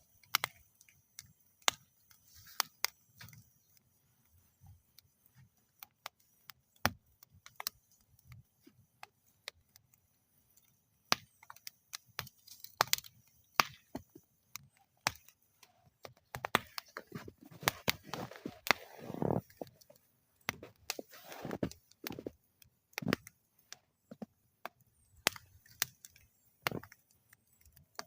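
Campfire burning in a metal fire bowl, crackling with sharp, irregular pops and snaps. About two-thirds of the way in, the crackling turns denser and busier for a few seconds.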